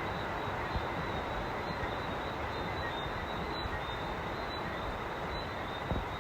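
Steady rain falling on a sheet-metal roof, with a few louder drops ticking on the metal. Frogs call through it in a steady, high-pitched chorus of short repeated notes.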